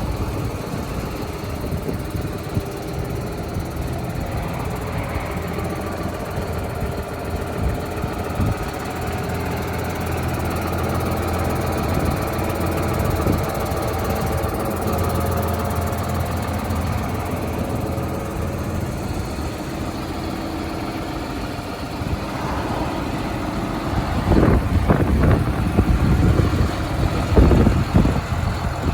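John Deere 7530 tractor's six-cylinder diesel engine idling steadily. A few louder low thumps break in near the end.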